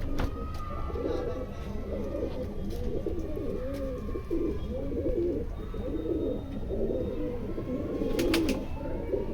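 Domestic racing pigeons cooing, several coos overlapping one after another with hardly a break. A few sharp clicks near the end.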